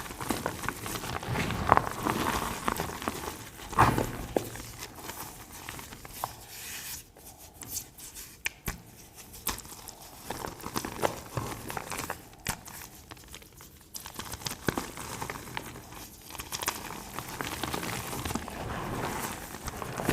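Reformed gym chalk crunching and crumbling as it is crushed, in irregular crunches with sharp crackles. The crunches grow sparser and quieter for a few seconds in the middle.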